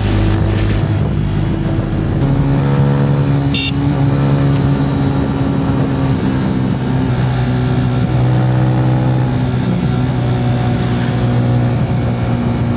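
Roadmaster Rapido 150cc motorcycle engine and exhaust running steadily under way, its pitch shifting up or down every few seconds.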